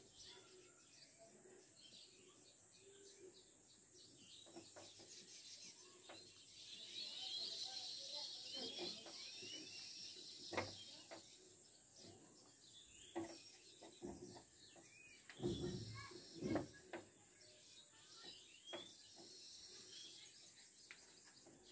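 Faint chirping of small birds in the background, in short repeated high calls, with a few soft knocks of handling scattered through the middle and later part.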